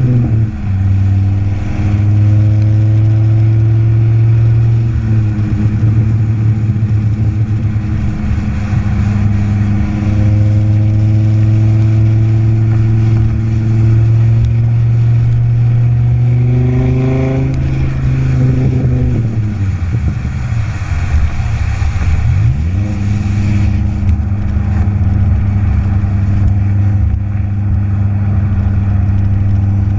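Dodge Viper V10 running through a Borla axle-back exhaust: a steady low drone whose pitch climbs slowly. Past the middle there is a short rev, then the engine speed dips and rises again before it holds steady.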